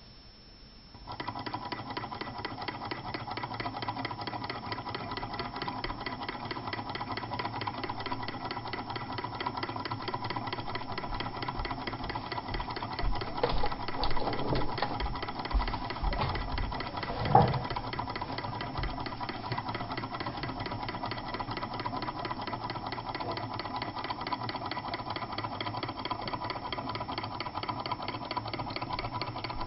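Small model Stirling engine with a lightweight wooden working piston running: a fast, steady mechanical clatter that starts about a second in, with a few louder knocks midway.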